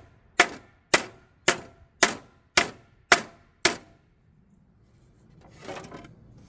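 Hammer striking metal: seven sharp, evenly spaced blows about two a second that stop about four seconds in.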